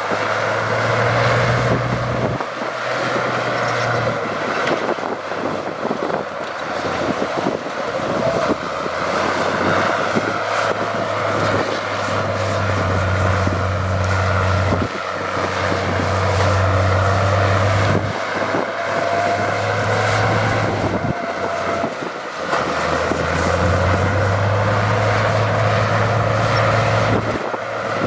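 Diesel engines of heavy earthmoving machinery running at work. A deep engine hum drops out and returns abruptly several times.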